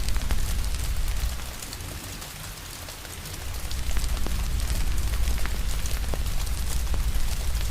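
Steady rain hiss with scattered sharp pops and crackles from a wood fire, over a deep low rumble. The rumble and overall level dip for a couple of seconds, starting about one and a half seconds in, then swell back.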